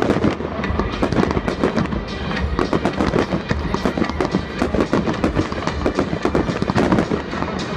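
Aerial fireworks bursting in a dense run of sharp pops and crackles, with music playing underneath.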